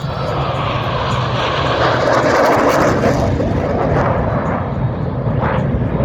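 Military jet flying past: a loud rushing jet-engine noise that builds to its peak about two to three seconds in and then eases off a little.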